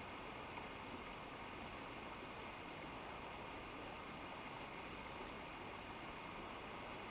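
Steady rush of running water from a mountain river, an even noise that does not change.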